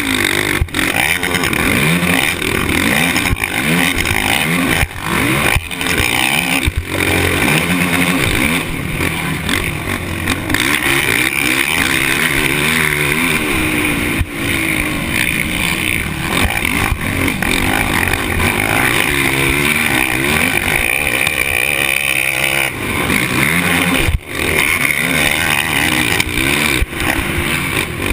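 Motocross dirt bike engine racing over a track, its pitch climbing and falling over and over as the rider opens and closes the throttle and shifts, over a steady rushing noise.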